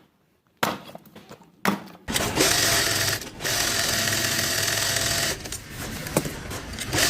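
Two short knocks, then a small power tool running steadily for about three seconds, with a brief dip partway through, before it stops.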